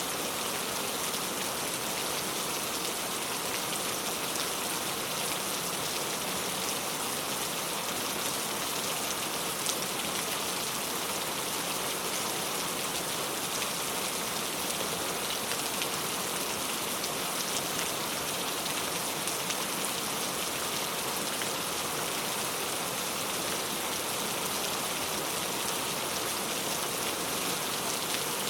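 Heavy rain falling steadily, a dense even hiss with fine drop ticks.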